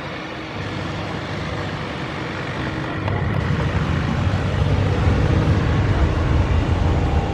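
A motor vehicle engine running, its low rumble growing louder from about three seconds in as it comes closer.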